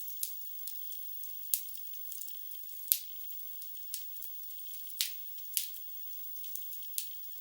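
Wood fire in a fireplace crackling: irregular sharp pops and snaps of burning logs over a faint hiss, the loudest pop about three seconds in. The sound is thin, with nothing in the low range.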